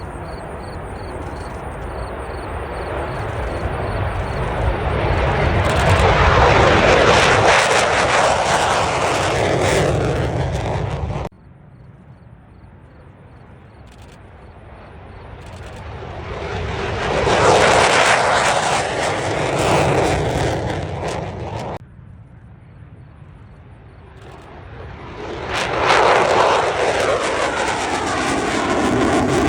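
Aircraft flying past, three times in a row. Each pass swells to a loud peak. The first two cut off suddenly, about eleven and twenty-two seconds in.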